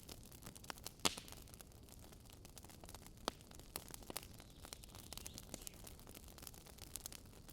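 Campfire burning: wood crackling and popping in irregular snaps, with one sharper pop about a second in.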